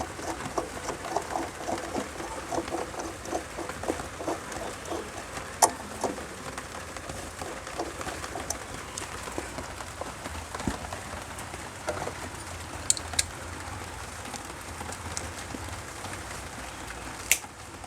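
Pigeons cooing, a low call repeated about four times a second for the first few seconds, with a few sharp clicks later on.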